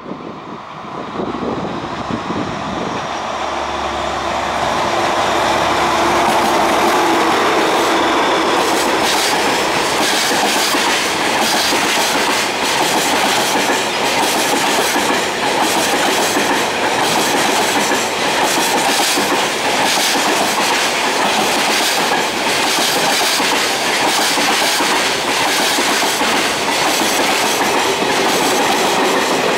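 A DF200 diesel locomotive hauling a container freight train approaches and runs past, its engine drone building over the first several seconds. Then a long string of container wagons rolls by, with steady rail noise and the clickety-clack of wheels over rail joints.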